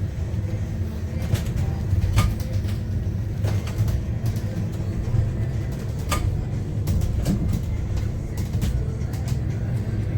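Cabin of a Yutong U12 city bus on the move: a steady low road and drivetrain rumble, with a few sharp rattles and knocks from the interior.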